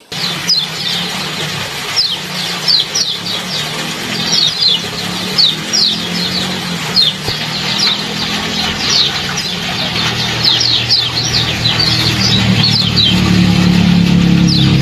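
Small bird chirping a quick, high 'ciak ciak', short notes that slide downward, coming singly and in quick runs, over a steady trickle of water. A low steady hum underneath grows louder near the end.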